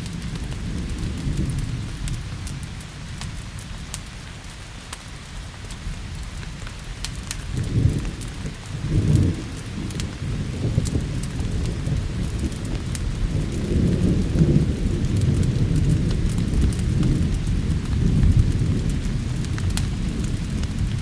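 Thunder rumbling low over steady rain, with a fire crackling in sharp little pops. The thunder swells twice in quick succession about eight seconds in and rolls again from about thirteen seconds on.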